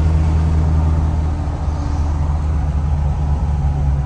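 Lifted diesel pickup's loud exhaust droning steadily while driving, a low even engine note.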